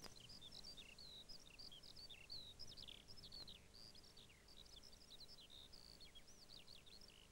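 Birdsong: a continuous stream of rapid, high chirps and trills without pause, over a faint low rumble.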